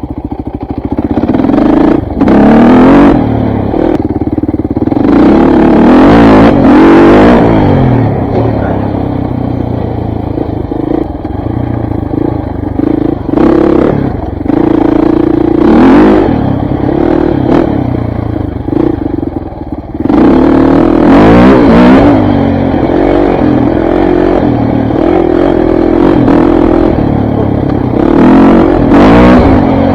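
KTM dirt bike engine revving up and down while being ridden, its pitch rising and falling through gear changes, with several hard accelerations.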